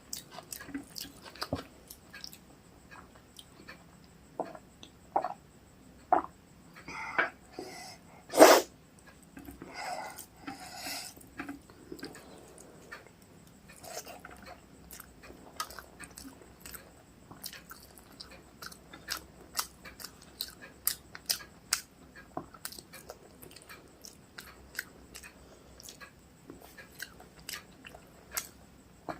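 Close-up eating sounds of rice and curry: wet chewing, lip smacks and many small clicks, with a busier cluster of louder mouth sounds and one sharp loud click about eight and a half seconds in.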